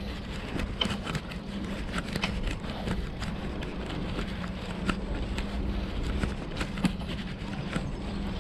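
Wind rumbling on the microphone and tyre noise from a moving bicycle, with a steady low hum and many scattered small rattling clicks.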